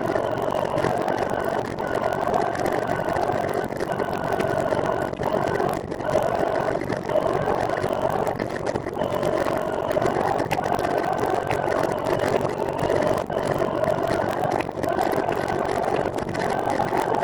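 Steady whirring road noise from a moving recumbent trike, its tyres and drivetrain humming, with a pitched whine that fades in and out every second or two.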